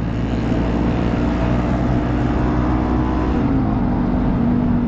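Motorcycle engine running steadily under way, with wind rushing over the microphone; its pitch shifts about three and a half seconds in.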